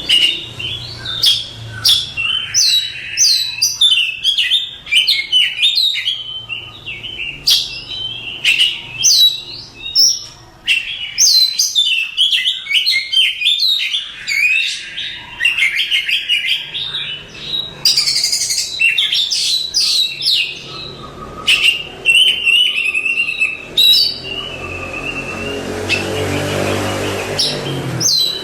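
Oriental magpie-robin singing a long, varied song of rapid high whistled phrases with quick rising and falling sweeps, with a rougher, noisier passage near the end.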